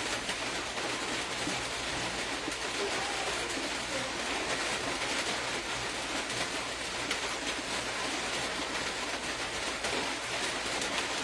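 Steady, even hiss of background noise, with faint distant voices a few seconds in and near the end.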